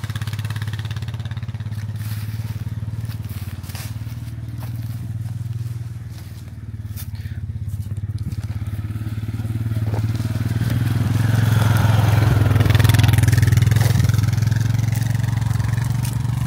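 A vehicle's engine running steadily with a low hum, getting louder about ten seconds in as a rougher, crunching noise joins it.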